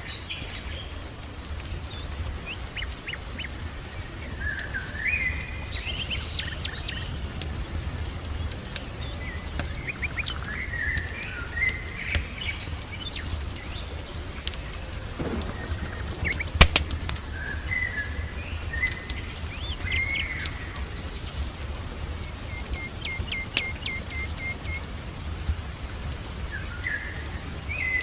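Songbirds calling in short chirping phrases, with a quick run of even ticking notes near the end. Sharp pops and crackles of a wood fire break in now and then over a steady low rumble.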